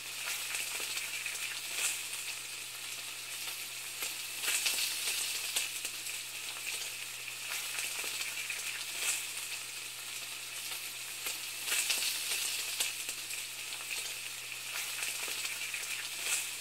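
Food sizzling and frying in a hot pan: a steady hiss with scattered crackles and pops.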